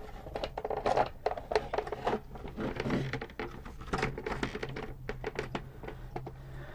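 Small plastic parts of a toy robot's tray mechanism being handled and fitted together: irregular light clicks, taps and rattles, over a faint steady low hum.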